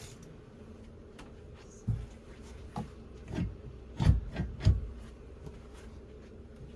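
Dull knocks and thumps with some rubbing as things are handled, about five over a few seconds, the two loudest close together just past the middle.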